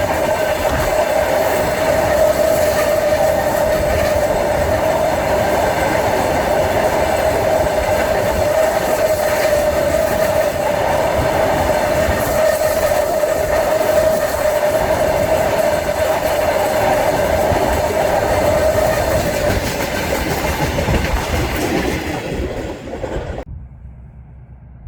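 A train rolling past, its wagon wheels clacking over the rail joints, with a steady ringing tone over the rolling noise; the sound cuts off sharply near the end.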